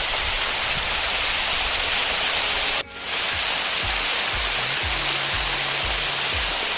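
Steady rushing roar of a waterfall, briefly dropping out a little under three seconds in, with background music carrying a repeating deep bass line coming in after the dropout.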